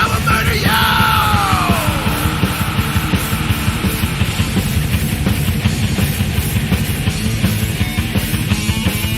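Thrash metal played by a band: distorted guitars over fast, dense drumming, with a high sliding sound that falls in pitch about a second in.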